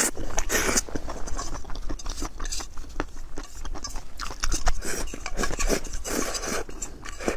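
Close-miked eating: wet chewing and mouth smacks, with slurps and clicks of cutlery, in a rapid run of short sounds broken by a few louder wet bursts.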